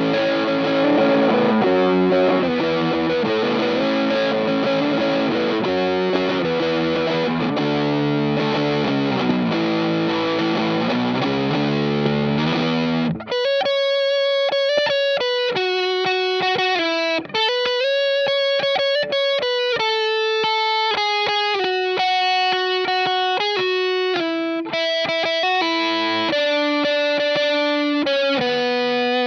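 Electric guitar (a 2006 Gibson SG GT) played through a Stone Deaf Warp Drive high-gain overdrive pedal: thick distorted chords for about the first thirteen seconds, then a sudden switch to a line of separate single notes, each cut off sharply between them.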